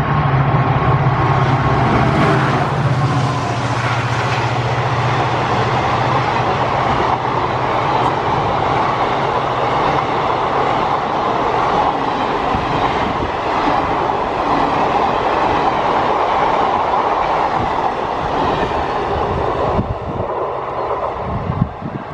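Express passenger train passing through a station at speed without stopping: a loud, steady rush of coaches with wheels clattering over the rails. A low hum is heard over the first few seconds, and the sound eases off near the end.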